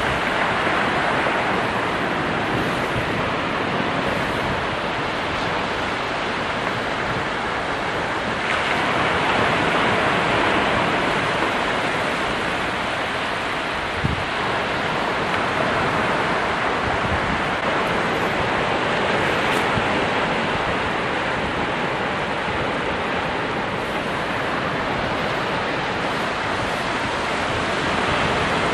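Ocean surf: a steady roar of breaking waves, swelling a little about a third of the way in.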